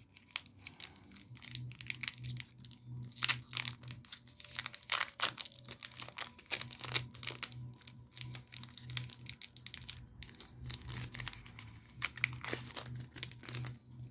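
Foil wrapper of a Magic: The Gathering Dragon's Maze booster pack being torn open and crinkled, the cards then handled, in a long run of irregular sharp crackles.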